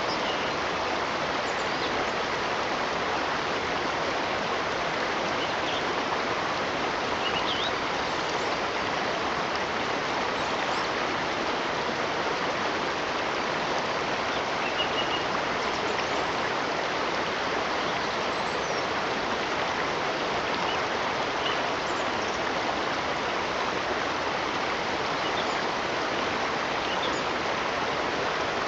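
Flowing water, a steady, even rush with no change, and faint short bird chirps now and then.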